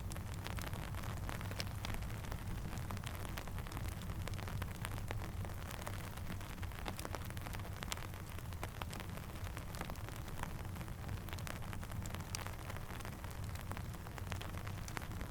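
Steady rainfall with a low rumble, mixed with a crackling campfire: many small, sharp crackles and ticks scattered throughout.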